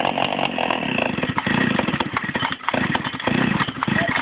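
Small two-stroke mini moto engine running with its exhaust disconnected at the front, so the exhaust comes straight out of the open port with no silencer. The throttle is blipped several times, the raw, rasping note surging and easing, and the engine stops abruptly at the end.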